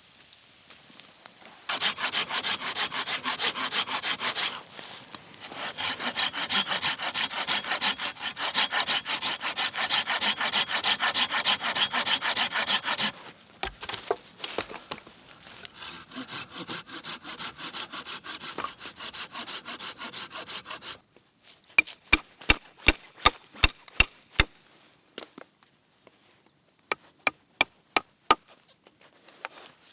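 A hand saw cutting through wood in fast, steady strokes, with a short pause about four seconds in, then continuing more softly. Near the end come two short runs of sharp, separate taps or knocks on wood.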